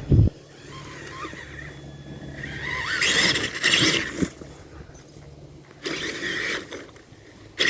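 Electric motor of a Tamiya TXT-2 RC monster truck whining up in pitch as it accelerates, with bursts of scraping and crackling from the tyres driving through brush and sticks. There is a low thump right at the start.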